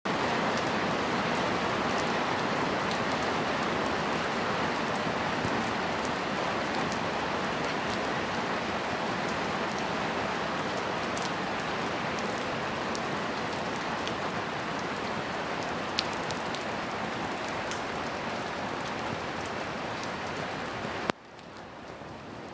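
Heavy rain falling steadily, a dense hiss with individual drops ticking through it. It drops abruptly to a much quieter level near the end.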